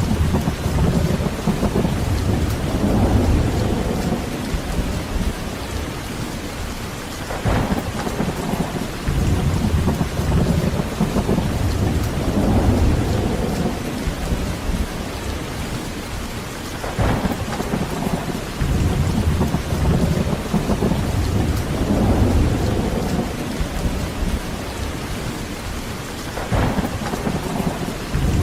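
Heavy rain falling steadily, with rolling thunder rumbles that swell and fade about every ten seconds and a brief sharper crack three times, each just before a rumble builds.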